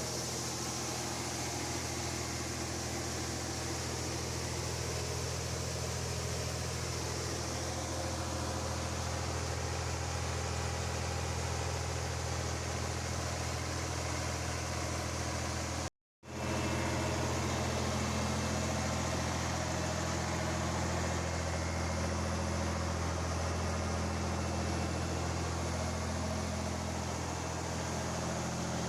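Engine of a grain-hauling vehicle running steadily at a constant speed, a low hum with hiss. The sound cuts out completely for a split second about halfway through, then carries on unchanged.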